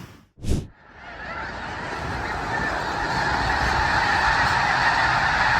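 A huge flock of snow geese calling together in a dense, continuous clamour of honking that builds up from about a second in. A brief thump comes just before it starts.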